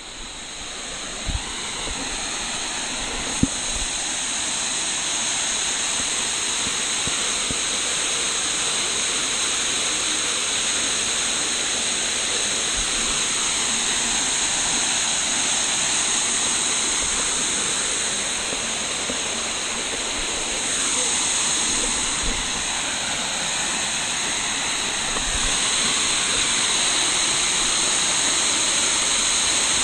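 Waterfall running with a steady rushing noise, building over the first few seconds.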